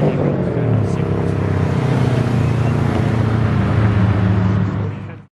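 A car's engine and exhaust rumbling low and steady as it drives off. The sound cuts off suddenly near the end.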